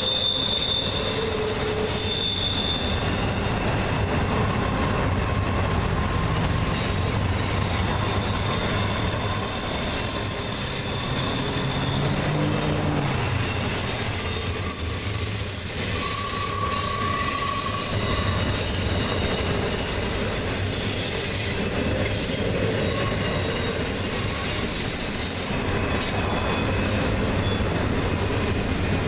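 Intermodal freight train's cars rolling past steadily, with wheel flanges squealing in shifting high tones over the rumble of the wheels.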